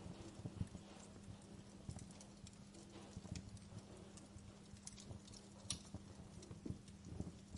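Wood fire burning in a fireplace, crackling and popping at irregular intervals over a low rumble, with a faint steady low hum underneath.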